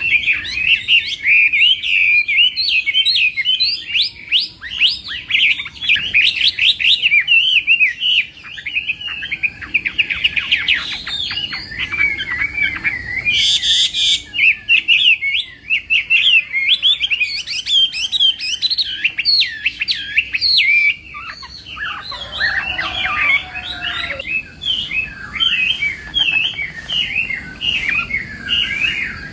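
Chinese hwamei (hoạ mi) singing a long, continuous, rapid song of varied whistled phrases, with a short harsh rasp about halfway through.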